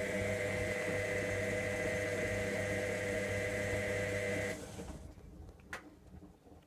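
Electra AWF683 washing machine's motor running steadily with a steady hum, then switching off about four and a half seconds in and running down; a single click follows shortly after.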